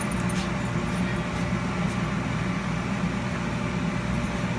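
Steady low machine hum that holds level throughout, with no distinct knocks or changes.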